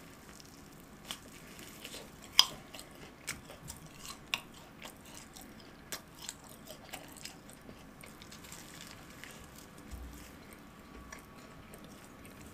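Close-up eating sounds of a fried cheese ball being bitten and chewed: sharp crunches and crackles of the crust, the loudest about two and a half seconds in, easing into softer, wetter chewing over the last few seconds.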